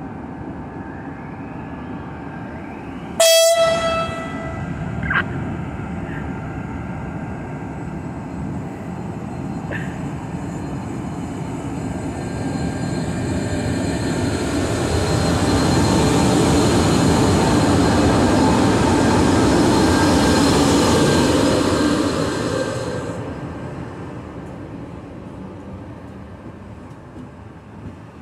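SNCB class 13 electric locomotive sounding its air horn (tyfoon) in one short, very loud blast about three seconds in. The locomotive and its intercity coaches then run past: the rumble and hiss of the passing train grow to their loudest in the middle and die away near the end.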